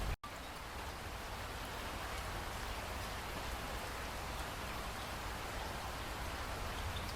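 Steady rain falling as an even hiss, with faint scattered drop ticks. It cuts out completely for an instant just after the start, like an edit splice, then resumes.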